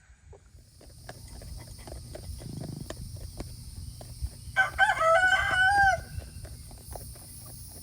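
A rooster crowing once, a single crow of about a second and a half about halfway through.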